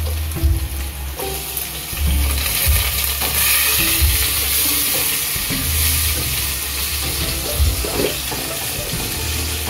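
Sliced ginger sizzling in hot oil in a stainless steel pot as it is sautéed, with a spatula stirring and scraping against the pot. The sizzle grows louder about two seconds in.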